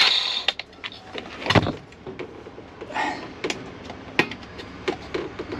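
A power grinder cuts off right at the start, followed by scattered clicks and knocks of dash parts being handled, with one louder knock about a second and a half in.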